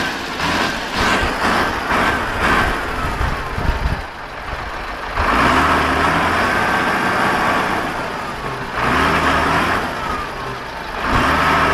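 A motor vehicle's engine revving hard in repeated surges, with a brief drop about four seconds in.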